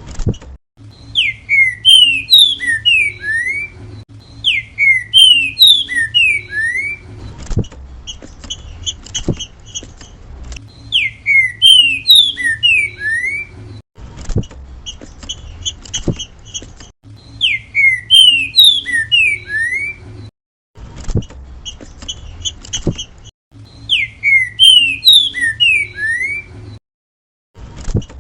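Green-winged saltator (trinca-ferro) singing its 'grego mole boi' song: five loud phrases, each about two seconds of clear whistled notes that glide up and down. Between the phrases come softer, rapid chirps, a few sharp clicks and a low steady hum.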